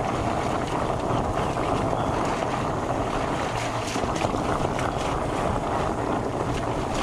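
Steady rushing wind on the microphone mixed with the tyre and drivetrain rumble of a fat bike ridden fast over a muddy trail.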